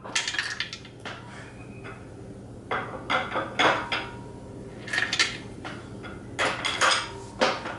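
Metal tools and parts clinking and clanking in several short clusters of sharp knocks and rattles, over a faint low steady hum.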